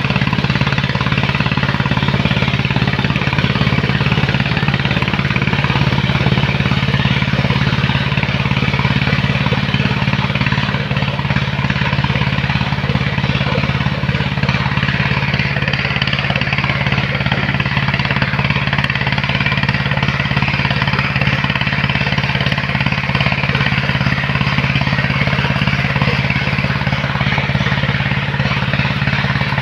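Heavy engine of sand-loading machinery running steadily at constant speed, a continuous low hum with rattly noise over it.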